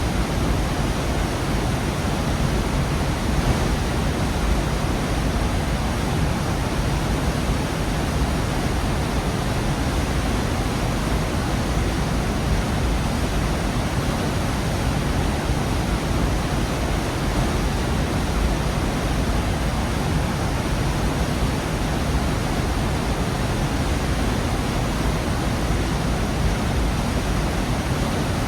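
Waterfall in a rocky gorge: a steady, dense rush of falling water, full in the low end, with no breaks or changes.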